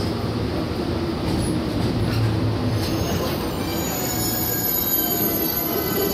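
Shinano Railway 115 series electric train heard from inside the car as it slows, with a steady low rumble and high thin squealing tones from the brakes and wheels starting about three seconds in: the train braking to a stop at the station.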